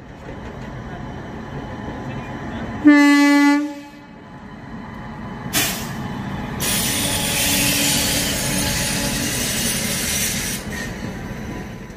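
Indian Railways passenger train running with a steady rumble. A single short blast of the train horn about three seconds in is the loudest sound. A sharp knock follows, then a loud rushing hiss for about four seconds.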